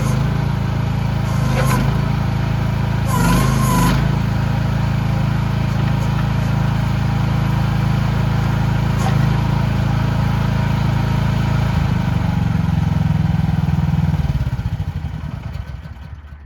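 Mini excavator's small diesel engine running steadily, with a few brief higher whines in the first four seconds. Near the end the engine is shut off and runs down to a stop.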